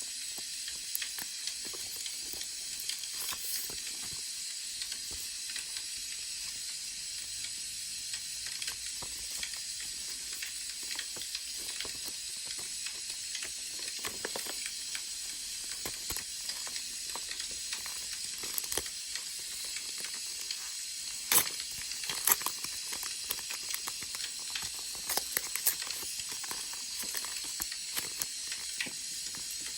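Firewood burning and crackling: a steady hiss with many scattered small crackles, and a couple of sharper pops a little past two-thirds of the way through.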